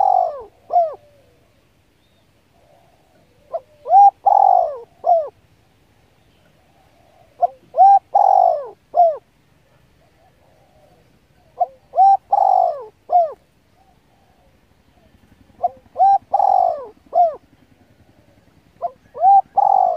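A bird calling: a phrase of several short notes, repeated regularly about every four seconds.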